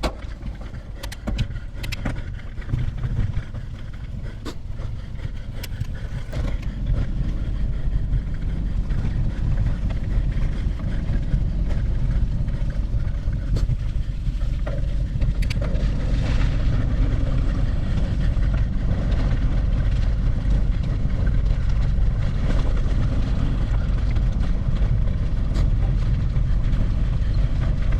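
A steady low rumble with a few sharp clicks in the first seconds, growing louder over the first several seconds and then holding steady.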